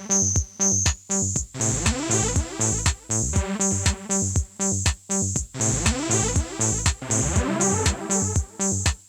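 Electronic music played on small synthesizers and a portable keyboard (KORG Kaossilator, KORG monotron Duo, Yamaha PSS-A50): a pulsing beat of about two strokes a second under repeating synth notes, some of them gliding up in pitch.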